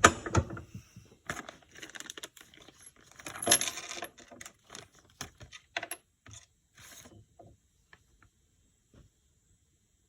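Small metal parts clinking and rattling against a hard surface: a quick run of clatters, loudest right at the start and again about three and a half seconds in, thinning out to a few scattered ticks.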